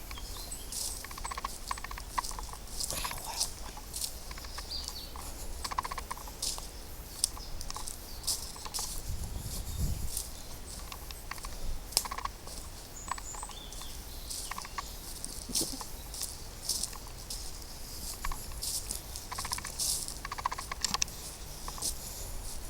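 Footsteps crunching irregularly on a woodland path, with a brief low rumble of wind on the microphone about ten seconds in.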